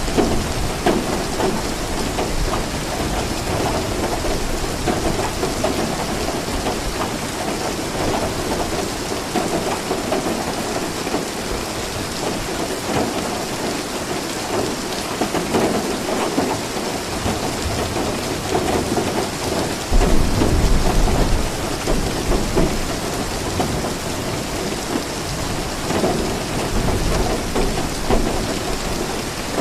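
Steady rain falling, with low rumbles of thunder; the loudest rumble comes about two-thirds of the way through.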